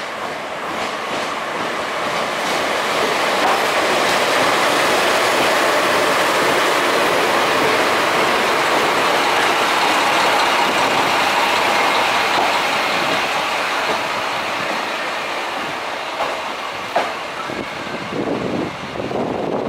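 A DE10 diesel locomotive and the Tango Kuromatsu railcar it hauls rolling slowly past on the rails into the station. The noise swells to its loudest midway, then eases as the train slows to a stop, with a brief sharp click near the end.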